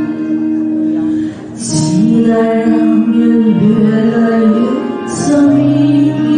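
A woman singing a slow song live with band accompaniment, holding long notes.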